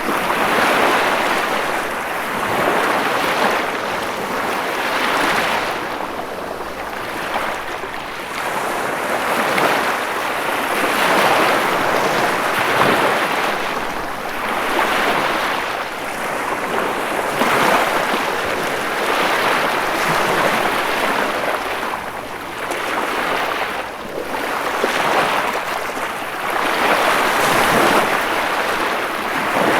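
Ocean waves breaking and washing on shore, a steady rushing surf that swells and recedes every few seconds.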